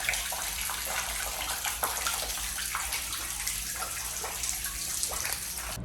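Water leaking down from the ceiling into a flooded room: a steady rushing hiss dotted with many small drips and splashes, which cuts off suddenly at the end. The leak is said to come from a bathroom on the floor above.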